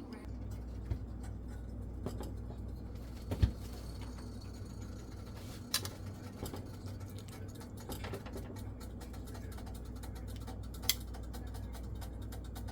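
Steady low hum with a few light clicks and knocks from handling kitchenware, one of them sharper about three and a half seconds in.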